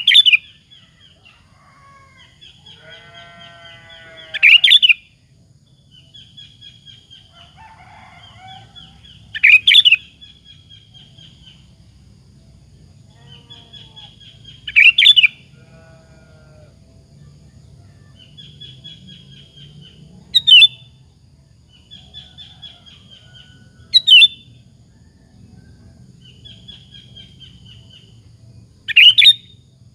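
Sooty-headed bulbul (kutilang) singing: loud, short, sharp phrases about every five seconds, seven in all, with softer twittering between them.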